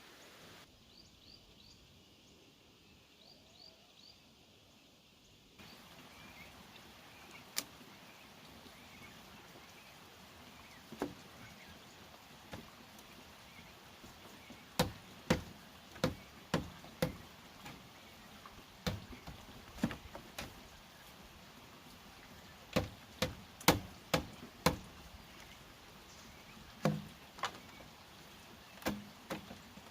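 Irregular sharp knocks from bamboo being struck by hand, a few at first, then quick runs of loud strikes about halfway through and again a little over two thirds of the way in.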